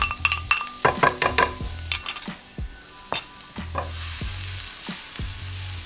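Chopped garlic and shallots sizzling in hot oil in a stone-coated pan, stirred with a spatula that taps and scrapes against the pan. The clicking of the spatula is busiest in the first half, and a steady sizzle fills in from about four seconds on.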